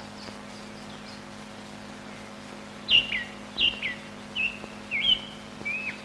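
A songbird calling: about five short whistled notes, roughly two-thirds of a second apart, beginning about halfway through, the first ones dropping sharply in pitch. Underneath is the steady low hum and hiss of an old film soundtrack.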